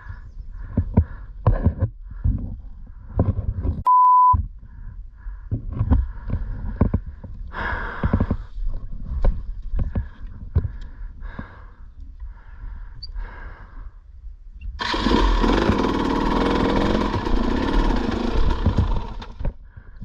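A dirt bike's engine runs in short uneven bursts over a low rumble. A single loud, pure beep cuts in for about half a second around four seconds in. Near the end, a loud steady rushing hiss sounds for about five seconds and then stops.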